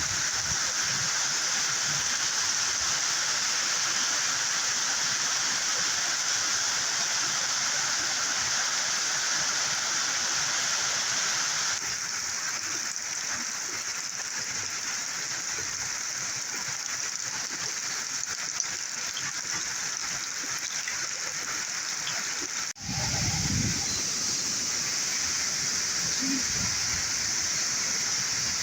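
Steady rushing of water from a flooded, rain-swollen river and heavy rain. The noise changes abruptly twice, about twelve and twenty-three seconds in.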